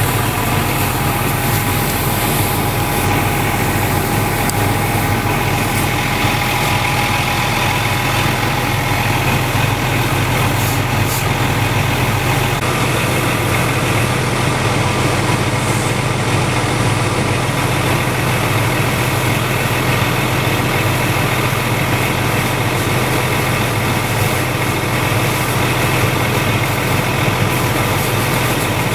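Fire engine idling steadily, a continuous low engine hum.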